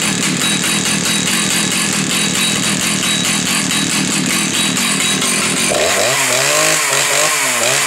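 Husqvarna 2100 XP 100 cc two-stroke chainsaw running at a steady idle, then revved about six seconds in, the revs wavering up and down.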